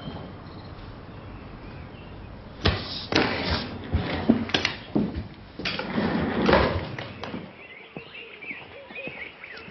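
A run of sharp knocks and thuds, about six over four seconds, like doors or heavy objects being handled, followed near the end by birds chirping.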